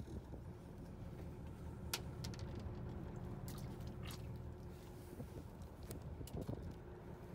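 Fishing boat's engine running with a steady low drone, with a few sharp clicks on top, the loudest about two seconds in and another about four seconds in.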